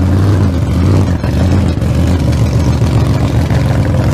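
An engine running at a steady speed, loud, with an even low pitch.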